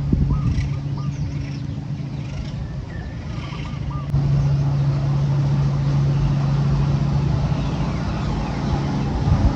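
Steady low motor hum of RC trucks running, jumping suddenly louder about four seconds in, with small birds chirping during the first few seconds.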